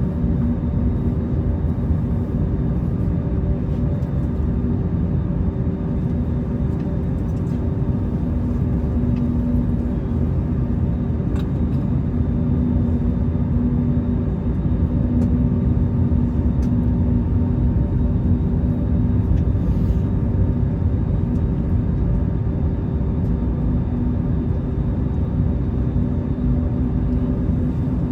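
Airbus A321 cabin noise from jet engines running at low power before takeoff: a steady rumble with a constant hum of several tones, and a few faint ticks.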